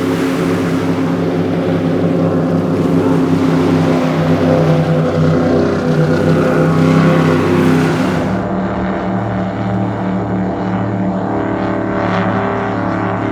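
High-performance Cigarette powerboat engines running loud at speed: a steady drone with a broad rush of water and wind over it. About eight seconds in, the sound changes abruptly to a steadier, duller drone without the high rush.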